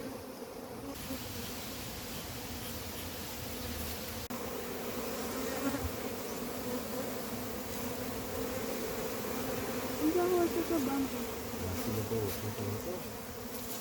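A large colony of honey bees buzzing steadily, a dense low hum with a higher overtone, as the bees are shaken out of their nest and into hive boxes.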